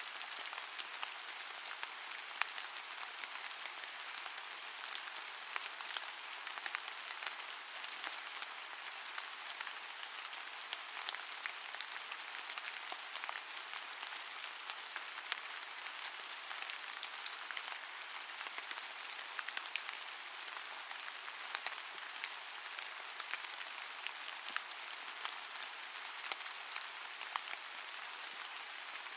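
Steady rain: an even hiss with a dense patter of small drop ticks and no low rumble.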